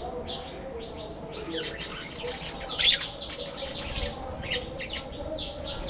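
A flock of budgerigars chattering: many quick overlapping chirps and warbles, with the loudest chirp about three seconds in.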